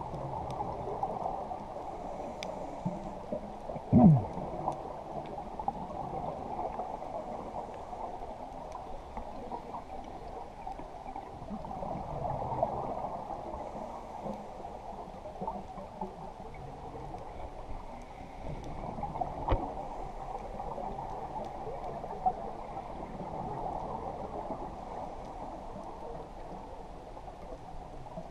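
Muffled water sloshing and gurgling around a small boat. There is one sharp knock about four seconds in, and a few fainter clicks later.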